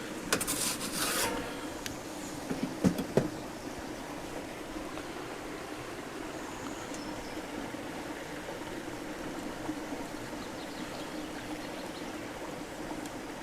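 A pizza peel scraping and rasping across the floor of a wood-fired pizza oven as the garlic bread is turned, with a few sharp knocks at about three seconds. After that comes a steady, low rushing background.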